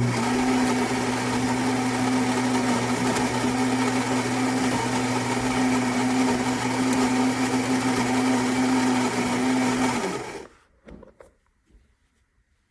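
Philips fully automatic espresso machine's built-in grinder grinding beans for an espresso: a steady motor hum with a grinding rasp that cuts off suddenly about ten seconds in.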